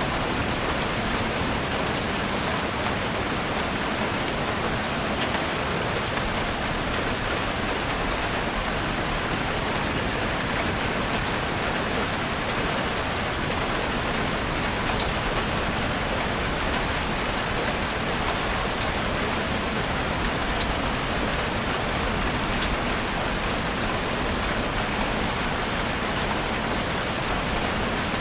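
Heavy rain drumming steadily on a chalet roof, a dense even hiss dotted with the ticks of single drops.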